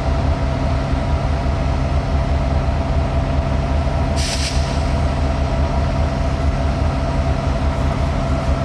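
Diesel locomotive idling with a steady low running sound, and a short hiss of air about four seconds in.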